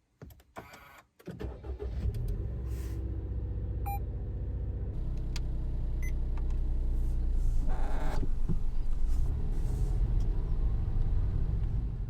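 Car engine starting after a few clicks and running steadily, with a brief electronic beep about four seconds in.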